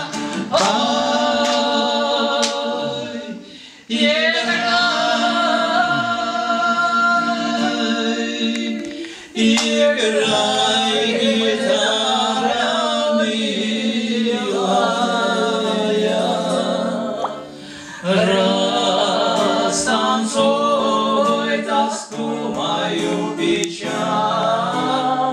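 Voices singing a slow Russian Gypsy-style romance in long held phrases over a steady low accompaniment, pausing briefly between phrases.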